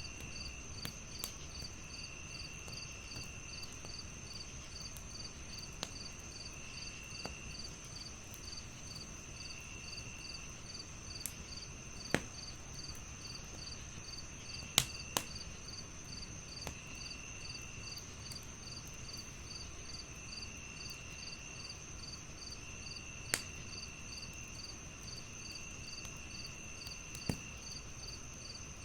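Crickets chirping steadily in a regular pulse over a continuous high insect trill, with another insect trilling in short bouts. A wood fire crackles with scattered small ticks and a handful of sharp pops.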